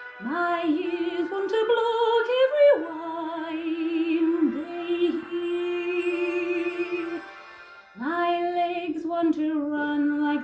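Music: a singing voice holding long notes with vibrato, sliding up into the first note and breaking off for about a second near the end before starting again.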